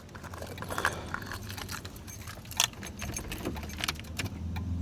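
Car keys jangling, with sharp clicks as the key is handled at the ignition, ahead of the first start of an LS-swapped Impala. A low steady hum comes in near the end.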